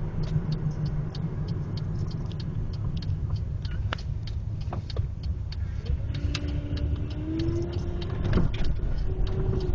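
Road and engine noise inside a 1999 Pontiac Grand Am while it is being driven: a steady low rumble with scattered light ticks. In the second half a faint tone rises slowly in pitch.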